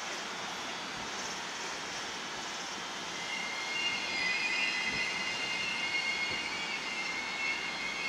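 HB-E300 series 'Kairi' hybrid train pulling away, a steady running noise that grows louder about four seconds in, with high wavering squeal-like tones joining it.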